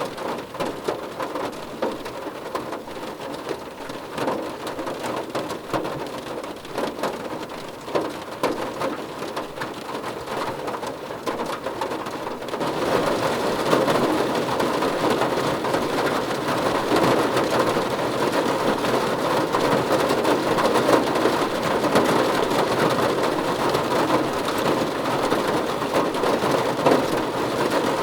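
Rain hitting a car roof: a dense, even patter of many drops on the metal. About halfway through it abruptly gets louder and fuller, and stays that way.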